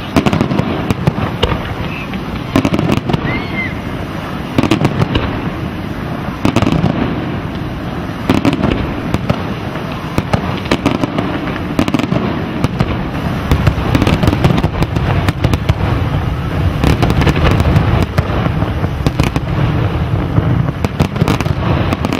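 Aerial firework shells bursting in quick succession: repeated booms with crackle. The bursts thicken into an almost continuous barrage over the last third.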